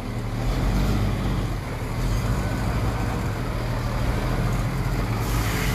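A heavy vehicle's engine running steadily with a low hum.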